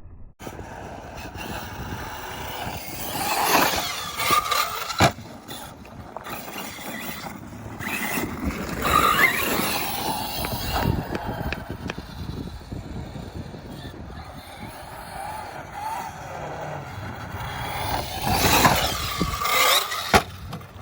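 6S brushless electric RC truck driving hard on dirt, its motor and drivetrain whine rising and falling through three loud acceleration bursts, with tyres scrabbling on the loose ground. A sharp knock comes about five seconds in and another near the end.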